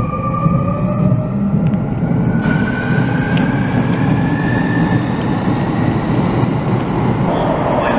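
Sotetsu electric commuter train pulling out of an underground station platform: the traction motors whine, rising slowly in pitch as it accelerates, over a steady low rumble of the wheels.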